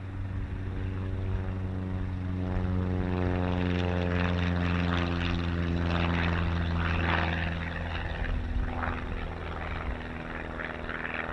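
Light aircraft's piston engine and propeller running. The sound grows louder over the first few seconds, then holds steady with a rushing propeller hiss over the engine's hum.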